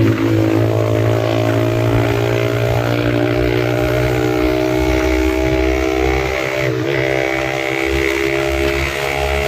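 Yamaha MT-15's single-cylinder engine through an Austin Racing aftermarket exhaust, running at a steady cruise. The note holds almost constant and drifts slightly lower as the revs ease off.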